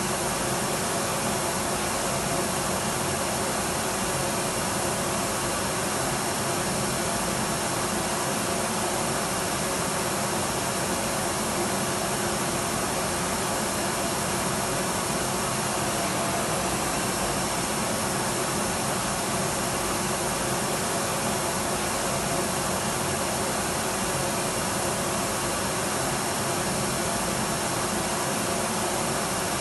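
Electric vacuum cleaner running steadily: an even motor-and-airflow rush with faint steady whining tones, unchanging in level.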